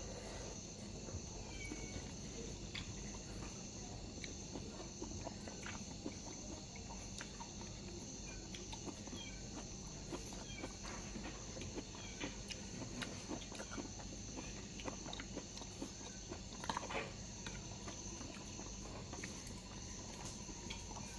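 Insects trilling steadily in a high, even drone, with scattered small clicks and taps and a brief louder sound about seventeen seconds in.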